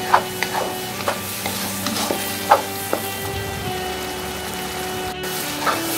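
Chili paste with tomato and petai sizzling in oil in a non-stick wok, stirred with a wooden spatula that scrapes and knocks against the pan several times. The tomato is being fried down in the paste until it softens.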